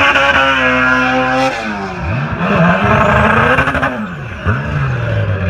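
Turbocharged Honda LS/VTEC four-cylinder engine in a Civic hatchback driven hard: held at high revs, dropping about a second and a half in, then revs rising and falling several times. A faint high whistle rises and falls near the middle.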